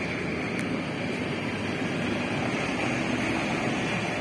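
Intermodal freight train of swap-body and container wagons rolling past: a steady rumble of wheels on the rails that holds even throughout.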